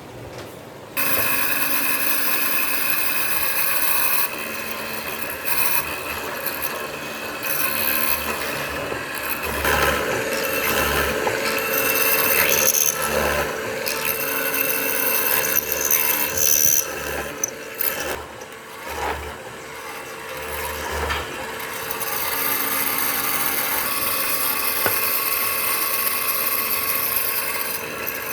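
A power tool working wood: a steady abrasive whir that starts abruptly about a second in, growing uneven in the middle as it bites into the wood.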